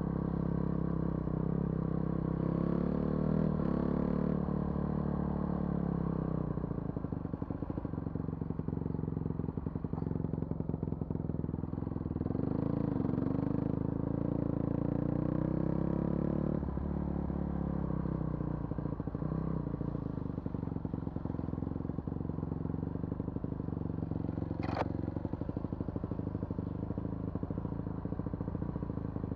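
A vehicle's engine running while driving along a forest road, its note shifting a couple of times as the throttle or gear changes. A brief high falling squeak sounds near the end.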